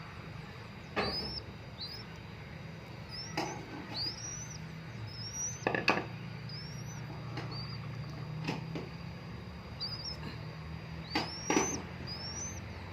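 A bird gives short, high, rising chirps again and again. Sharp taps come in among them, loudest about six seconds in and again near the end, over a steady low hum.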